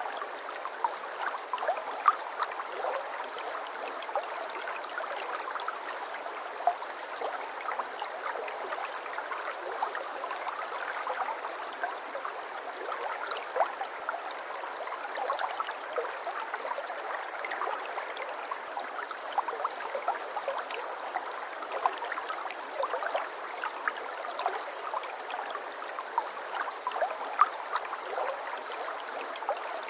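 Babbling brook: shallow water running steadily over stones, with many small splashes and gurgles.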